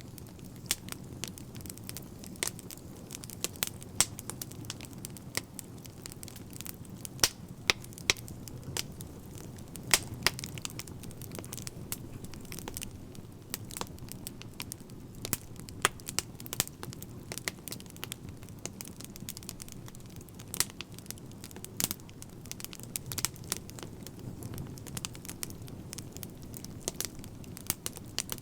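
Fire crackling: irregular sharp pops and snaps, several a second, over a steady low rumble of the burning.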